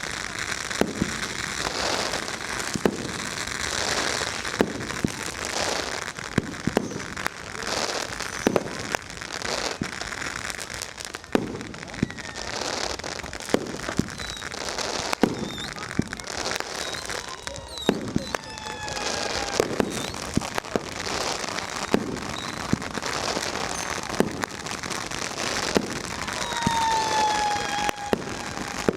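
Dense fireworks and firecrackers going off nonstop: sharp bangs at irregular intervals over a constant crackle, with several whistling shells falling in pitch in the second half.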